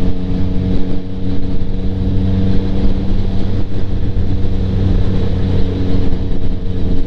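2025 Yamaha MT-09's 890 cc inline-three engine running at a steady cruise through a Kelpi Flanker aftermarket exhaust with the baffle in, heard from inside the rider's helmet. The engine note holds steady, with small changes in pitch.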